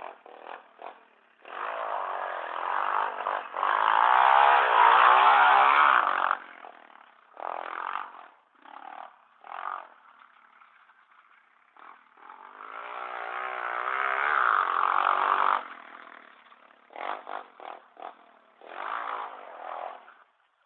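Pit bike engine revving as it rides the track, with two long climbs in pitch under throttle, a few seconds in and again past the middle, and short throttle blips between them.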